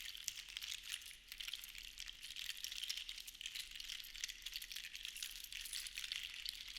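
Seashells rattling and clicking against one another in a dense, fine patter, swelling and easing every couple of seconds.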